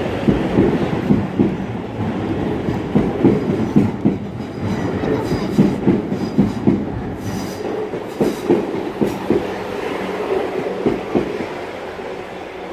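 Class 444 electric train passing over a level crossing, its wheels clattering rhythmically over the rail joints in repeated thumps, often in pairs. The sound fades as the last carriage clears near the end.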